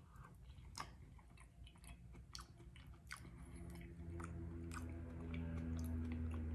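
A man chewing a mouthful of boiled potato, with scattered soft mouth clicks and light fork taps in an aluminium foil tray. From about three seconds in, a low steady hum builds and gets louder.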